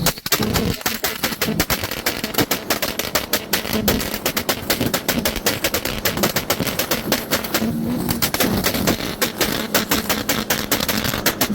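Car engine held on a two-step launch-control rev limiter, the exhaust firing a rapid, continuous string of loud pops and bangs, several a second.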